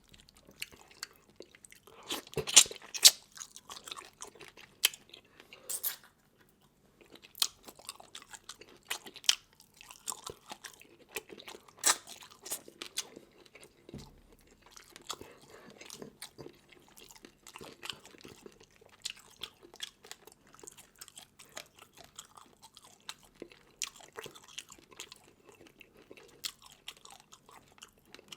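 Close-up eating sounds from a seafood mukbang: sharp crunching bites into hard crab and fish parts and wet chewing, with the loudest cracks about two and a half seconds in and again near twelve seconds.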